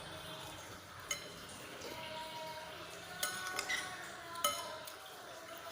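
Spoon clinking against a bowl of meatball soup while eating: a sharp clink about a second in, a quick cluster of clinks a little past the middle, and another soon after, each ringing briefly.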